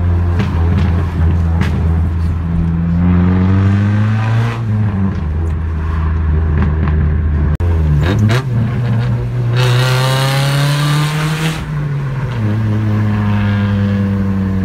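Car engine heard from inside the cabin, pulling up through the gears. Its pitch climbs under acceleration and drops at each shift, about 4.5, 8 and 12 seconds in. A loud rushing hiss runs for about two seconds near the middle.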